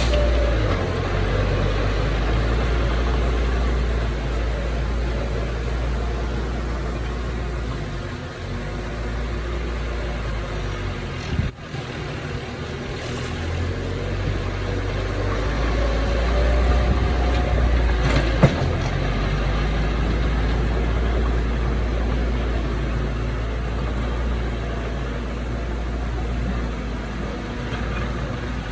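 Heavy diesel earthmoving machinery running steadily with a deep low rumble. It briefly drops out for a moment about 11 seconds in, and there is one short sharp click about 18 seconds in.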